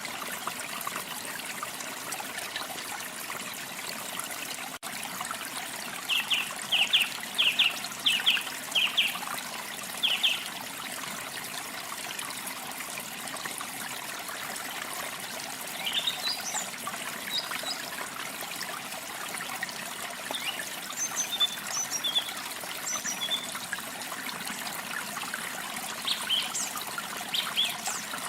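Water trickling steadily, with birds calling over it. Starting about six seconds in there is a run of about seven short notes, and a scattering of higher chirps follows later.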